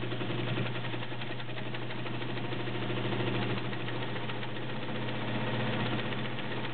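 Kenmore model 148.1204 all-metal zigzag sewing machine running steadily, its motor humming under a fast, even clicking of the needle stitching. It is sewing a zigzag whose width is swung back and forth by hand to form a pyramid embroidery pattern.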